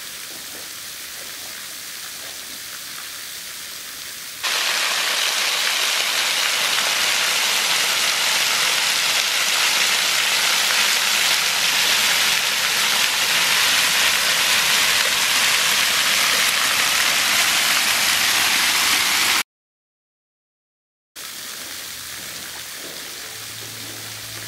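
Small waterfall splashing onto rock and water. About four seconds in it becomes suddenly much louder, as if right under the falling water, then it cuts out abruptly for a couple of seconds and returns at the quieter level.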